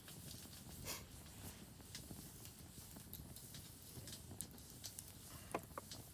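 Wood campfire crackling faintly, with scattered irregular snaps and pops, a few sharper ones near the end.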